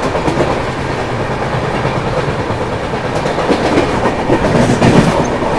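Passenger express train running at speed, heard from on board: a steady rumble of wheels on rail with a clickety-clack of rail joints. A few louder clacks come about four to five seconds in.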